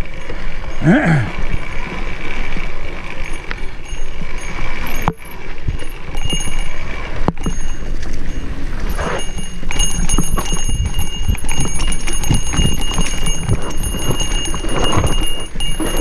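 Mountain bike rattling and knocking over a rough dirt single-track, with wind buffeting the microphone in a steady low rumble.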